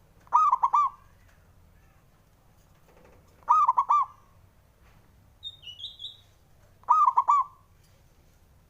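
Male zebra dove (perkutut) singing: three short cooing phrases about three seconds apart, each a quick run of about four notes. Between the second and third phrase a smaller bird gives a brief high chirp.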